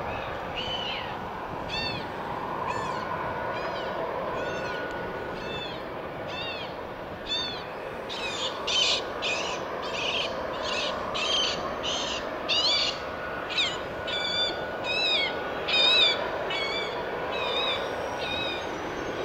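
A bird calling over and over with short, high chirps, about once a second at first, then faster and louder from about halfway through, over a steady background hiss.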